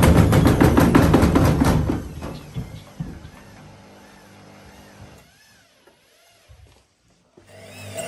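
Candy Smartpro washing machine on a fast spin with an unbalanced load of heavy wet towels, its drum knocking rapidly against the cabinet. After about two seconds the knocking stops and the spin winds down to near quiet, leaving a faint wavering whine.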